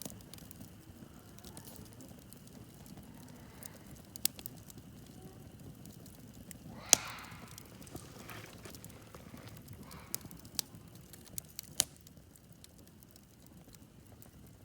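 Wood campfire burning with scattered crackles and pops over a faint low hiss; the sharpest pop comes about halfway through.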